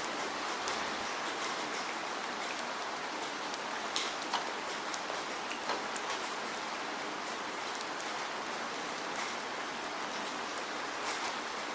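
Steady rain falling, an even hiss of rainfall with scattered individual drops ticking sharply on a surface.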